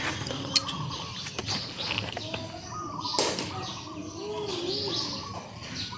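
Animals crying: many short, wavering high-pitched calls that overlap, with a lower wavering cry about four seconds in and a few sharp clicks.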